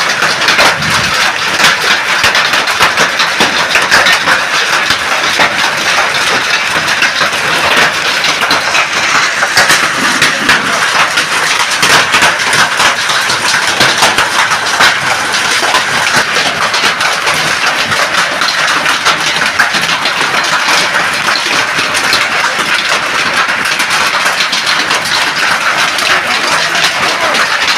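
Heavy rain mixed with hail: a loud, steady rush dense with sharp clicks of hailstones striking.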